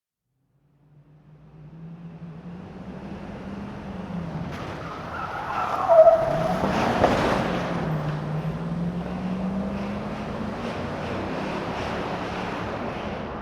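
Car-chase sound effect of a truck engine driving indoors: the engine starts up and revs, with a tyre squeal sliding down in pitch about six seconds in, the loudest moment, and then runs on steadily.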